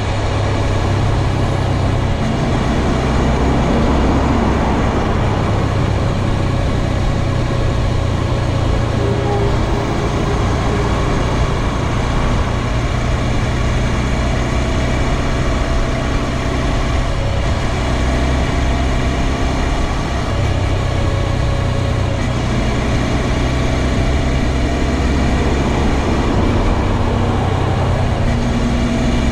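2022 Honda Grom's small single-cylinder engine running steadily, its low drone varying a little in pitch, under a steady wash of noise.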